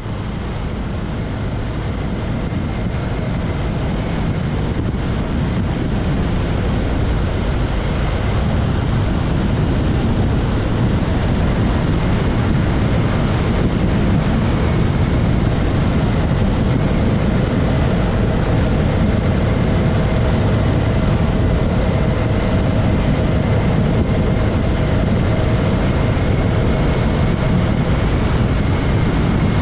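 Motorcycle running at road speed, its steady engine drone mixed with heavy wind rushing over the microphone.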